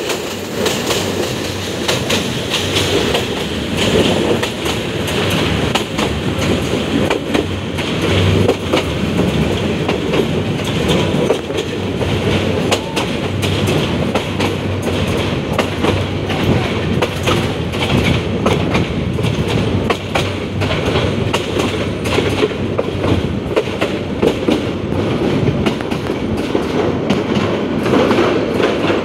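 Metre-gauge passenger coaches in motion, heard from an open coach window: a steady running rumble with a dense clatter of wheels over the rail joints.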